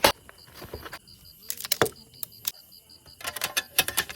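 Clicks and clatter of small objects being handled: a sharp knock at the start and a quick run of clicks about three seconds in, over the steady high pulsing chirp of night insects.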